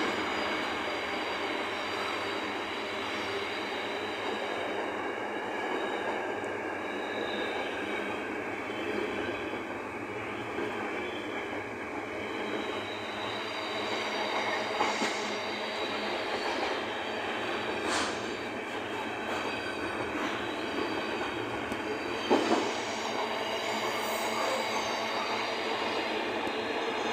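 Container wagons of a freight train rolling past close by: a steady rumble of wheels on rail with faint thin high squealing tones from the wheels and a few sharp clacks, the loudest about 22 seconds in.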